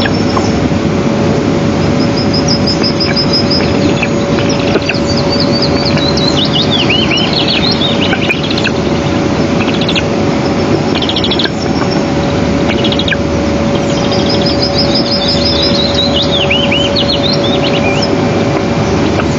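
Small birds singing, repeated high rapid trills and short falling whistled phrases, over a loud steady rushing noise with a constant hum-like tone.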